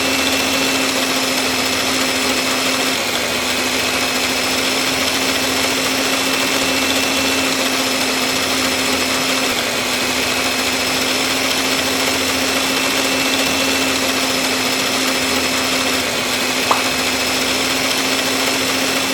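Small motor of a homemade miniature saw machine running steadily with a constant whine, cutting off suddenly at the end.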